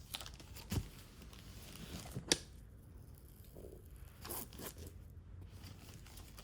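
Sticky tape being ripped off a plastic comic-book bag, with the plastic crinkling and a few sharp snaps, the loudest about two seconds in.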